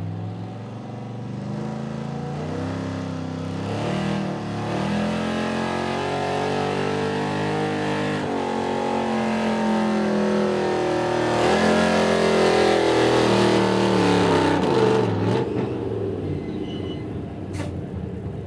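Pulling truck's engine running hard at full throttle under load as it drags the weight sled down the track, its pitch climbing and dropping several times. It is loudest about two-thirds of the way through, then winds down and fades as the run ends.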